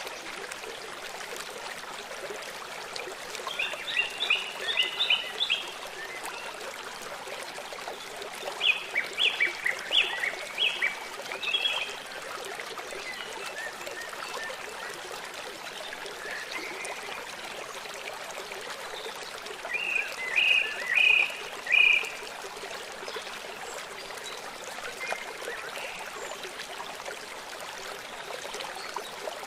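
Birds chirping in three bursts of quick repeated high notes over the steady rush of a running stream.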